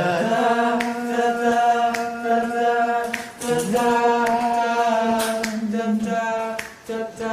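Singing: voices holding long, steady notes with little change in pitch, broken by short pauses and a few sharp clicks.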